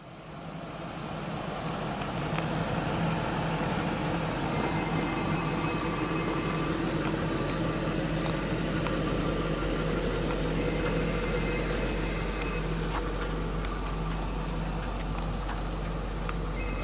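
A 2001 BMW 740i's 4.4-litre V8 idling steadily, fading in over the first couple of seconds.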